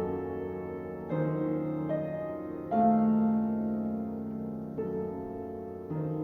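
Slow, gentle piano music: single notes and chords struck every second or two, each left to ring and fade.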